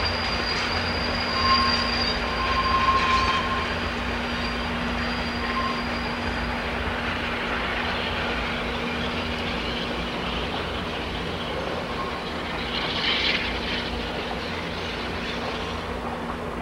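Passenger cars of a steam-hauled train rolling past on the rails with a steady rumble, and thin high wheel squeals through the first several seconds. A brief high squeal comes again near the end as the train moves off and the sound eases slightly.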